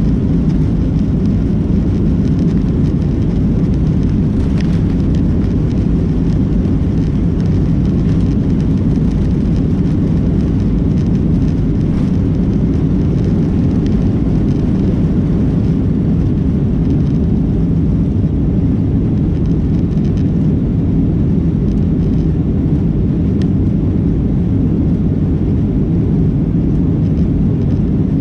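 Cabin noise of a Boeing 737-800's twin CFM56 jet engines running at high power: a loud, steady low drone with no rise or fall.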